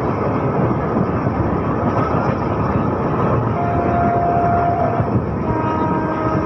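Running noise of a superfast express train travelling at speed: a steady rushing rumble of wheels on rails and air, heard from an open window of the coach. Faint steady tones come in during the last second or so.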